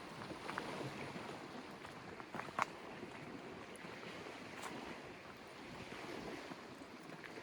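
Small lake waves lapping and splashing at the shore, with wind buffeting the microphone, and a short sharp splash or knock about two and a half seconds in.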